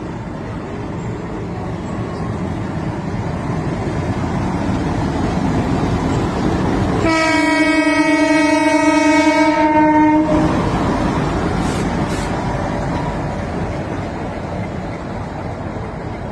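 A train passing: steady rail rumble that builds, peaks and fades away. About seven seconds in, its horn sounds once for about three seconds.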